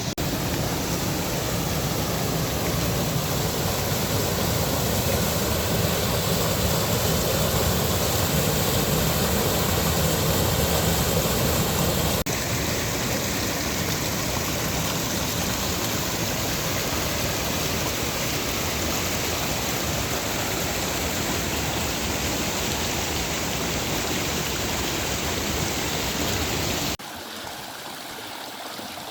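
Stream water flowing, a steady rushing noise. It shifts abruptly about twelve seconds in and turns suddenly quieter near the end.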